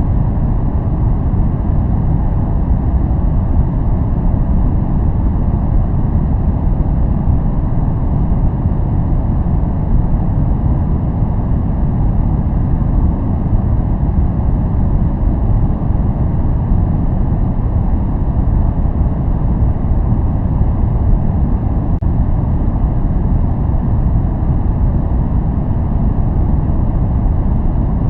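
Steady, unbroken noise from a noise track played as white noise, with most of its weight low down and little hiss in the highs, so it sounds deep and muffled rather than bright. It does not change.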